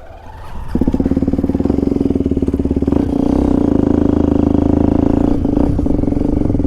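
Motorcycle engine pulling away: quiet at first, then less than a second in the engine comes up loud and runs on steadily with a fast pulsing beat.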